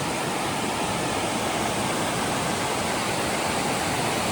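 Steady rush of fast-running stream water cascading over rocks below Mae Ya Waterfall.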